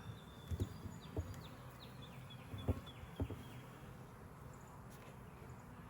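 Honeybees buzzing around a hive in a low steady hum, with four light knocks as the hive cover is set back in place.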